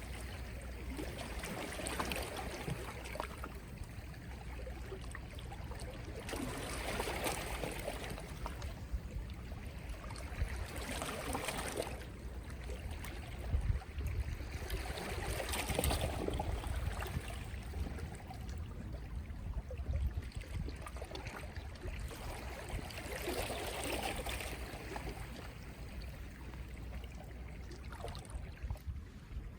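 Soft sea waves lapping and washing ashore, swelling and fading in gentle surges every few seconds over a steady low rumble.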